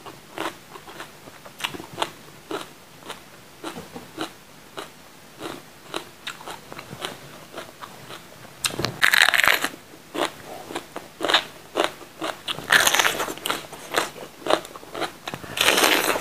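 Close-up chewing of raw green bell pepper eaten with rice: soft, even chews about twice a second, then three louder crisp crunches as she bites into the pepper, about 9 s, 13 s and 16 s in.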